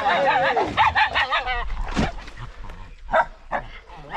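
Hunting dogs barking and yelping at a caught wild boar, a run of rapid wavering cries for about a second and a half, then a sharp knock and a few single barks near the end.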